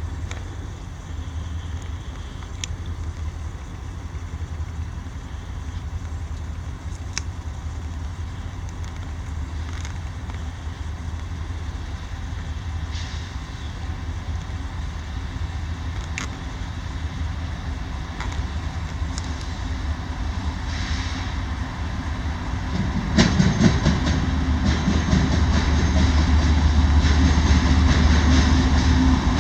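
Approaching CSX freight train's GE diesel locomotives, a low rumble that slowly grows louder, with a sudden jump to a fuller engine roar about 23 seconds in as the lead units draw near.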